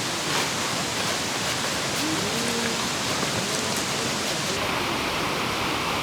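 Mountain valley stream rushing: a steady, even rush of running water. Its tone changes abruptly about two-thirds of the way through, getting less hiss and more middle.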